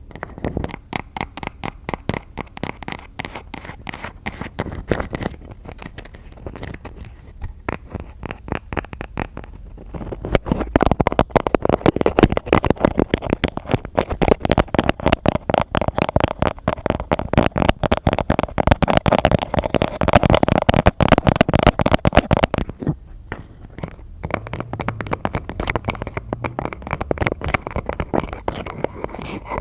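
Rapid tapping and scratching on objects held close to a microphone: a dense run of small clicks and scrapes that grows faster and louder about ten seconds in, then drops to a softer, sparser scratching a little after twenty seconds.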